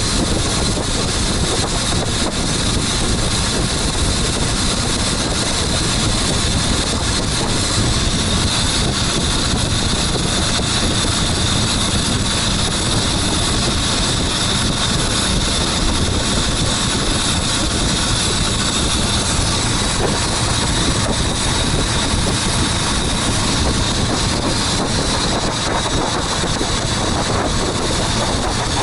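Motorboat engine running steadily at cruising speed, an unbroken drone with a thin steady whine, mixed with wind and water rush.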